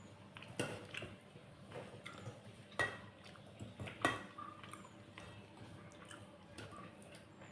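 Close-up eating sounds from a plate of rice and curry: soft wet squelches, with a few sharp clicks and clinks against the plate, the loudest two about three and four seconds in.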